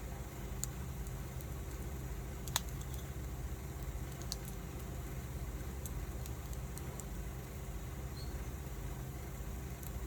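Wood fire burning, with scattered crackles and one sharper pop about two and a half seconds in, over a steady low rumble.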